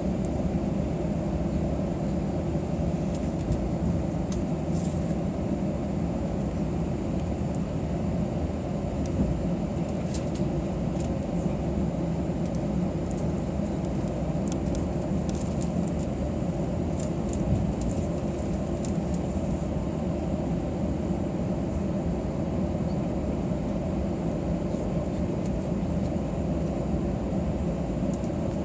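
Airbus A320 cabin noise heard from inside: a steady rumble of the engines and airflow, with a faint high whine and a few light clicks.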